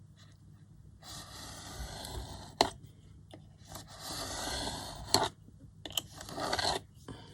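Card being cut with scissors in three long rasping strokes, each ending in a sharp snap: a strip of card trimmed narrower.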